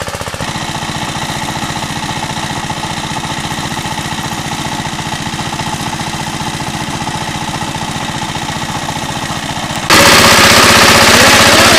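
Two-wheel tractor engine running steadily with a rapid, even firing beat. About ten seconds in it suddenly becomes much louder.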